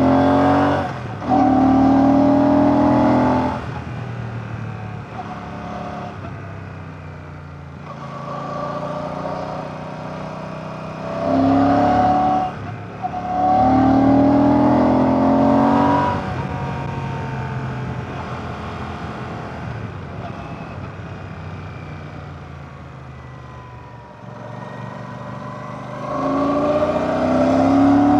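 Royal Enfield Classic 650's 648cc air/oil-cooled parallel-twin engine under way, accelerating three times with its pitch rising. The pulls are broken by brief drops at gear changes, with quieter stretches off the throttle in between.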